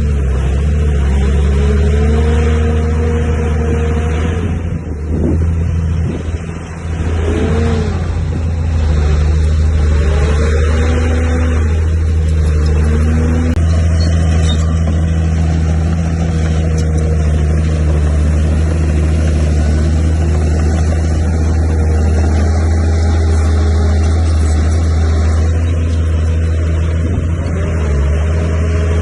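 Heavy diesel engine of earthmoving machinery running steadily under load. Its pitch drops and rises again about five to seven seconds in, then it runs on steadily.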